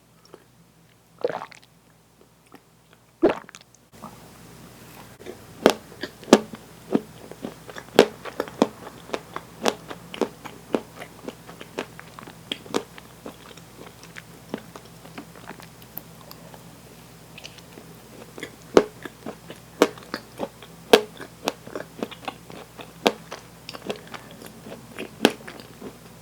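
Close-miked eating: a person biting and chewing crunchy food, with crisp crunches coming about twice a second after a quieter opening with a couple of single bites.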